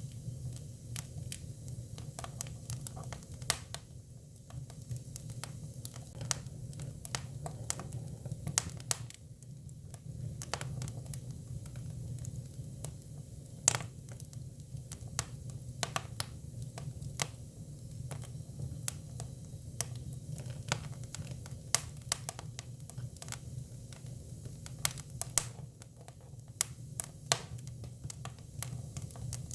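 Japanese cypress (hinoki) firewood burning: irregular sharp crackles and pops over a steady low rumble of the fire.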